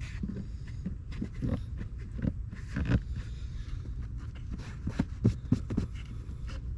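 Rubber door gasket being pressed by hand into the door frame of a Mercedes W140 S500: irregular soft knocks and rubbing as the compression-fit seal is worked into place, over a steady low hum.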